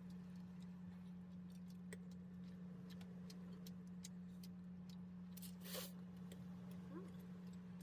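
Faint scattered clicks of utensils during a quiet meal, over a steady low hum, with a short rush of noise about six seconds in.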